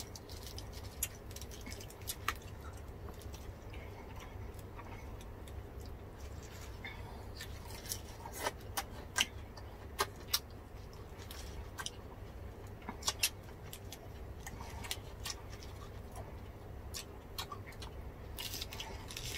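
Close-up chewing and crunching of crispy deep-fried pork skin (bagnet and crispy pata) wrapped in lettuce, heard as scattered sharp crackles over a faint steady low hum.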